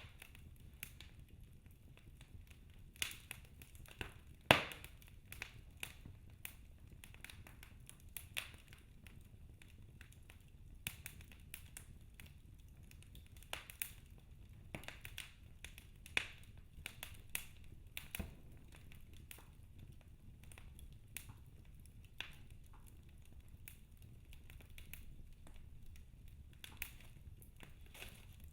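Wood fire burning in a fireplace, crackling with irregular sharp pops over a low steady rumble; one louder pop about four and a half seconds in.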